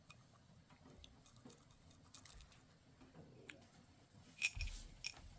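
Faint scattered clicks and taps, then a louder knock with a rustle about four and a half seconds in.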